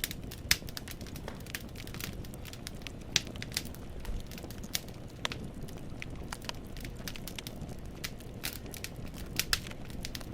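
Wood fire in a fireplace crackling, the burning logs giving off irregular sharp pops and snaps over a low, steady rumble of flame. A few pops stand out louder, about half a second in, around three seconds in and near the end.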